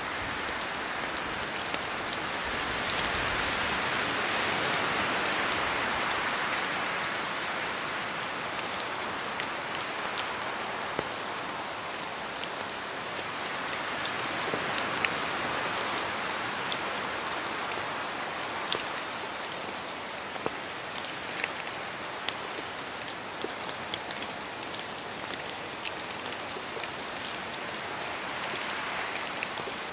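Steady rain falling, an even hiss with many separate drops ticking sharply, swelling for a few seconds near the start.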